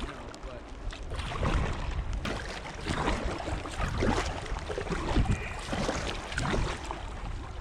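Kayak paddling on a river: paddle blades splashing into the water about once a second, over steady water noise and wind rumble on the microphone.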